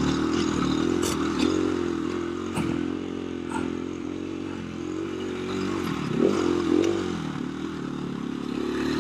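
KTM 350 EXC-F dirt bike's single-cylinder four-stroke engine pulling steadily under throttle on a rough uphill trail, with a brief rise and fall in revs about six seconds in. A few sharp knocks ring out over the engine note as the bike rides over the terrain.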